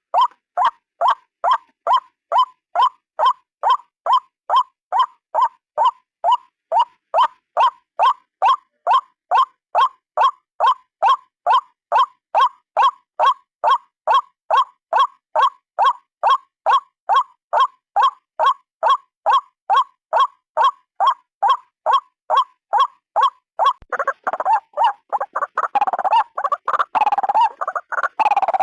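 White-breasted waterhen calling: one short note repeated very evenly, about two and a half times a second. About 24 seconds in, this breaks into a faster, jumbled run of overlapping calls.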